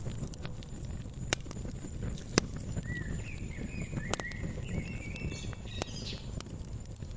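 Wood fire crackling: a steady low rumble with a handful of sharp pops, the loudest about two and a half seconds in. A small songbird chirps a quick series of short notes over it from about three seconds in until near the end.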